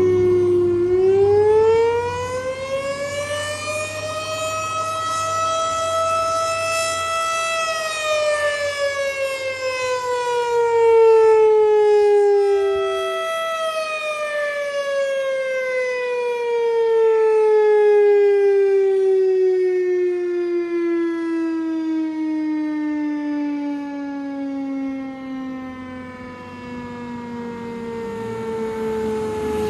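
Fire truck siren wailing: it rises over a few seconds, holds high, falls, then after a brief break starts high again and winds slowly down to a low pitch. A low engine rumble sits under it at the start and again near the end.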